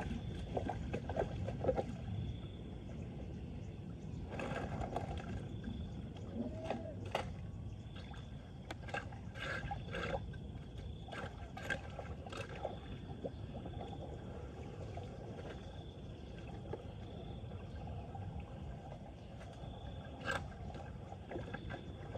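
Floodwater running with a steady rush, broken by scattered splashes and knocks, most of them in the middle of the stretch and one more near the end.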